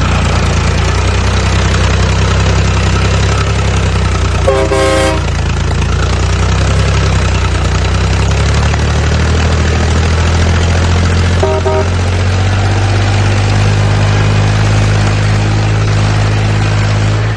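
Remote-control toy truck running with a steady low engine sound. Its horn toots twice: about half a second long, four and a half seconds in, and a shorter toot about eleven and a half seconds in.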